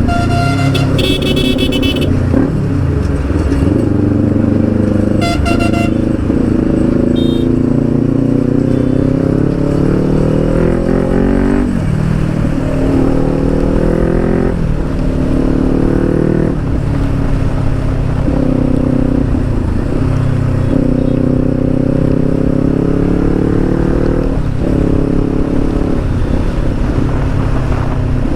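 Kawasaki Ninja 400's 399cc parallel-twin running through an Akrapovic exhaust while being ridden. Its pitch climbs under throttle and drops back at each upshift, several times over. Short horn toots sound twice in the first few seconds.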